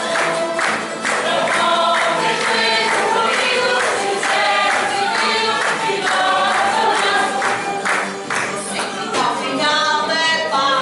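A group of voices singing together in chorus, with musical accompaniment keeping a steady beat.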